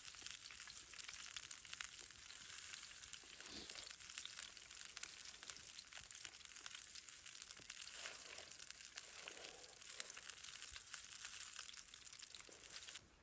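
Campfire crackling steadily, a fine sizzling hiss dotted with many small pops. It cuts off abruptly near the end.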